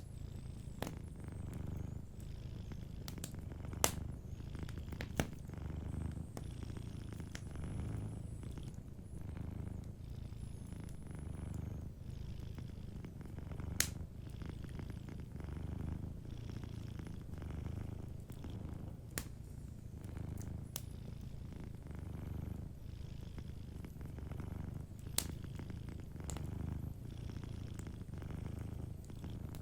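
Domestic cat purring steadily, the low rumble swelling and fading with each breath about every two seconds, over a wood fire that gives a few sharp, separate crackling pops.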